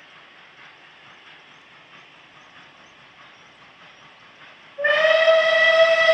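A train running quietly in the background, then, nearly five seconds in, a steam locomotive whistle sounds suddenly, loud and held, one steady pitch with rich overtones.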